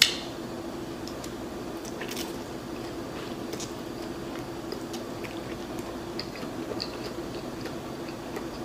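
Close-mic'd chewing of a mouthful of garlic noodles: soft wet mouth clicks and smacks, with a sharp short sound right at the start, over a faint steady hum.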